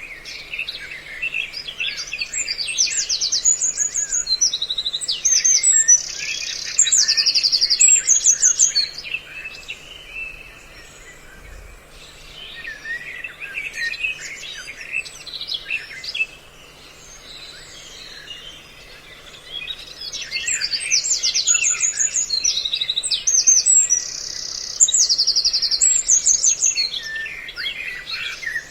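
Bird-call lure recording mixing the calls of several songbirds: busy passages of high chirps and rapid trills, with quieter chattering between them, the busy passage coming round again about twenty seconds later.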